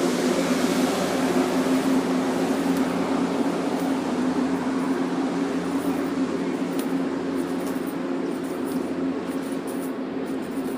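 MBTA commuter train standing at the platform, its diesel locomotive idling with a steady low hum that slowly fades a little.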